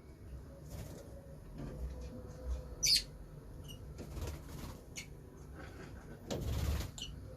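Pet lovebirds: one short, sharp high chirp about three seconds in, a few fainter chirps and small clicks, and a half-second flurry of wing flapping near the end.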